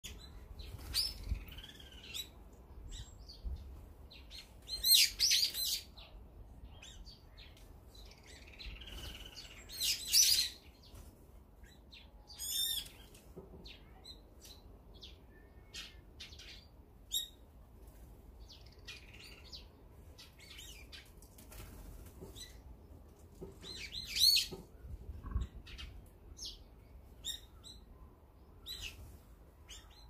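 Brown-eared bulbuls calling at a feeder: loud, harsh, shrill calls break out about five, ten and twenty-four seconds in, with a quick run of falling notes near twelve seconds and scattered short chirps between.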